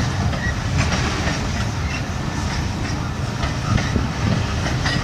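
CSX local freight train's cars rolling past with a steady low rumble and occasional clicks of wheels over the rail.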